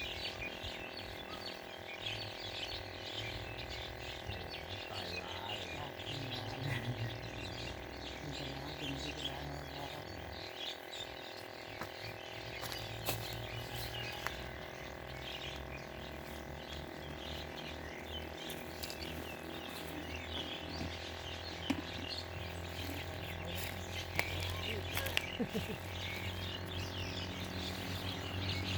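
Outdoor ambience of birds chirping and twittering continuously over a steady background drone, with a few faint clicks.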